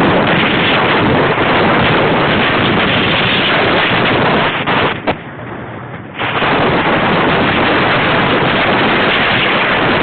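Wind buffeting the microphone of a wearable camera on a moving bicycle: a loud, steady rush that eases for about a second around the middle.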